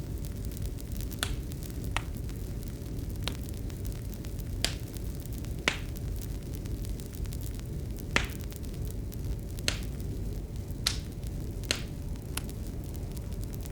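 Wood fire crackling: sharp, irregular pops about once a second over a steady low rumble of the burning, with a faint steady hum underneath.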